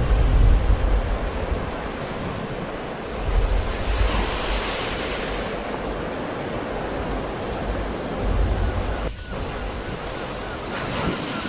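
Sea waves breaking and washing ashore, surging about four seconds in and again near the end, with wind buffeting the microphone in low rumbles.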